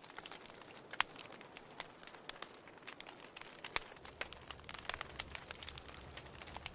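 Wood fire crackling in a fireplace: irregular sharp pops and snaps over a soft hiss, with louder pops about a second in and near four seconds in.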